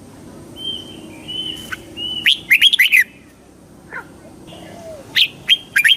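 Red-whiskered bulbul singing: short phrases of quick whistled notes, with a loud burst about two seconds in and another near the end.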